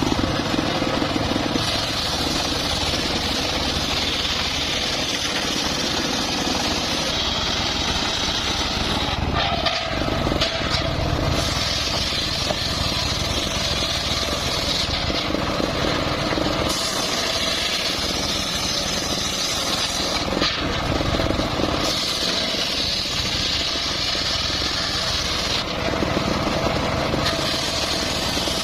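Homemade engine-driven circular sawmill running steadily, its blade sawing through a log with a higher whine that comes and goes every few seconds as the cuts go on.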